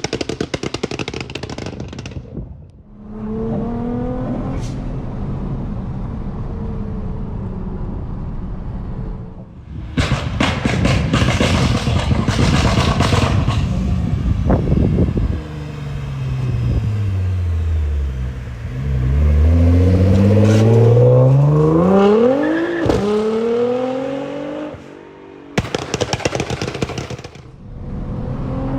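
Nissan GT-R R35's twin-turbo V6 and loud exhaust being driven hard. Harsh, rasping stretches at full throttle alternate with a steadier note. About halfway through, the engine pitch falls, then climbs steeply as it revs up through a gear, drops suddenly, and a short harsh burst comes near the end.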